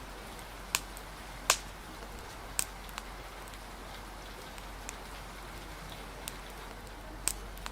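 Steady hiss of rain with the scattered sharp pops of a crackling wood fire, about seven in all at uneven intervals, the loudest about a second and a half in.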